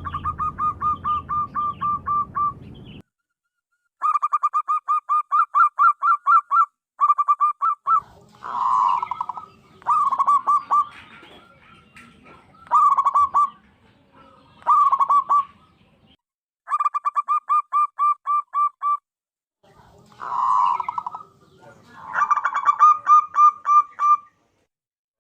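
Zebra dove (perkutut) calling: runs of quick, clipped cooing notes, about five or six a second, each run lasting two to three seconds, with a few shorter, softer coos in between.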